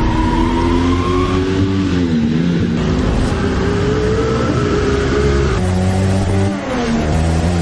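Motorcycle engine running and being revved, its pitch rising and falling, with drops about two seconds in and again near the end.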